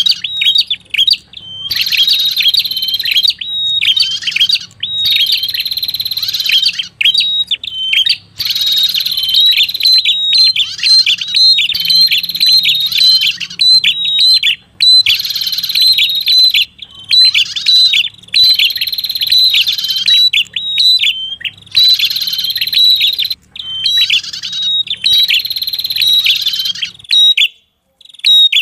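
Recorded lure call of the prenjak kepala merah bird: rapid, high chattering song in phrases of one to two seconds with short breaks, repeated over and over, over a faint low hum. Near the end the chatter stops, leaving only a few short chirps.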